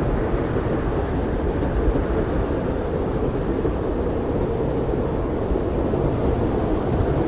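Blizzard wind blowing steadily in a low, dense rush with no gusts or breaks.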